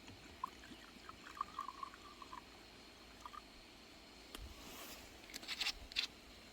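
Faint, short bird chirps in a quick little series, then near the end a few brief, sharp noises, the loudest part of the sound.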